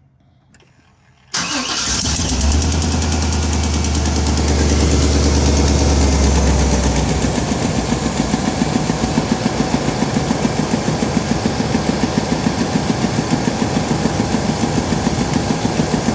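Old pickup truck's engine starting about a second in and running on, louder for the first several seconds before settling into a steady, pulsing idle. It is the first run after an oil change, letting the fresh oil circulate.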